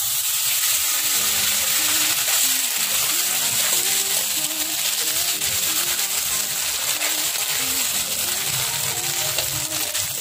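Raw shrimp sizzling loudly in hot margarine as they are tipped into a pan and stirred. Background music plays underneath.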